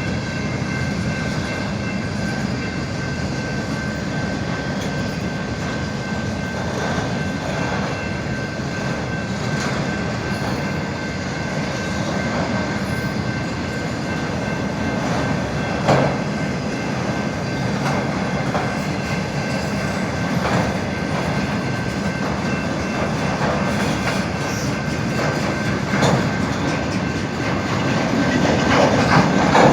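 Norfolk Southern freight train rolling past at about 25 mph with a steady rumble and clatter of its cars. A thin high whine runs through it, and a few brief louder squeaks or clanks come about 16 and 26 seconds in.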